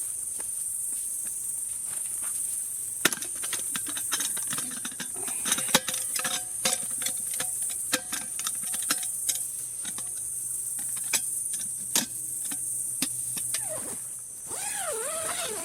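Crickets and other night insects chirring steadily at a high pitch. From about three seconds in, many irregular sharp wooden snaps and clicks are heard.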